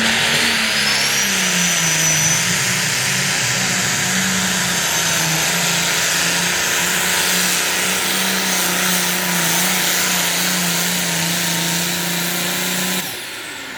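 Turbocharged diesel pulling-tractor engine running hard at full throttle under load, its pitch holding steady with slight wavering. A high whistle rises about a second in, and the engine drops away sharply near the end as the throttle comes off.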